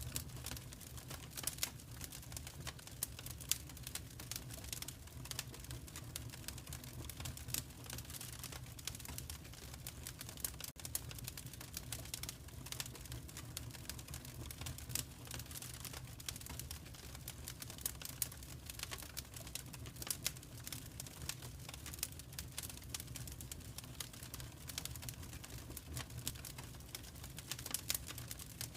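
Wood fire crackling in a fireplace: many small irregular pops and snaps over a low steady rumble.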